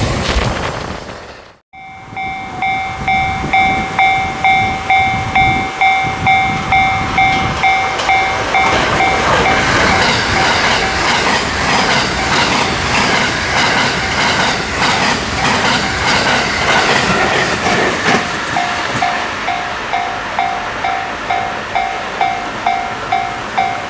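Railway level-crossing warning bell ringing about twice a second, then a 683-series limited express train passing at speed, its wheels clattering over the rail joints, with the crossing bell ringing on after it. Near the start a louder train sound fades and cuts off.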